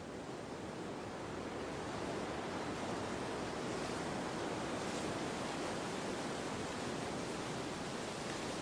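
Wind blowing as a steady rushing noise, swelling over the first couple of seconds and then holding even.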